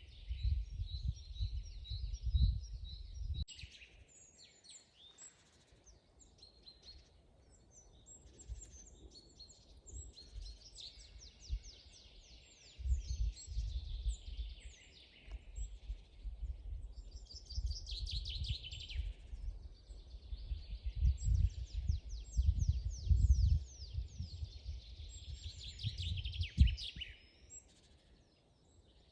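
Several songbirds singing in a forest, overlapping with rapid high trills and chirps. Gusts of low rumble, wind on the microphone, come and go beneath them, strongest about halfway through to near the end.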